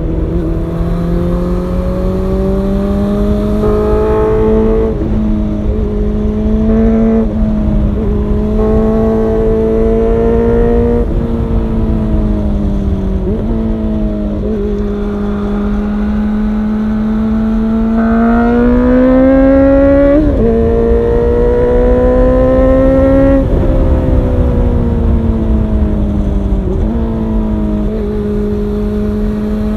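Honda CB400 Super Four's inline-four engine running through an aftermarket LCI short titanium muffler, revving as the bike is ridden. The pitch climbs and drops again and again, with a sharp break every two to five seconds, over a steady low rumble.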